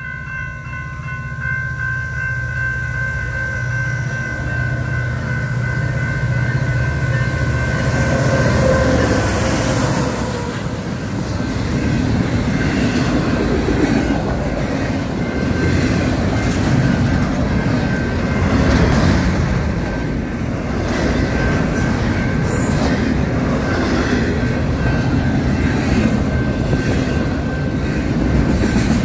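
Freight train passing a grade crossing: the crossing bell rings steadily over a low drone from the locomotives. About ten seconds in, the loud rumble and rattle of double-stacked container cars rolling by takes over, with repeated clicks from the wheels on the rail joints.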